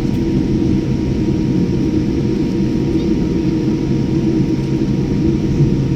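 Jet airliner's engines giving a steady low rumble, with a faint steady hum over it.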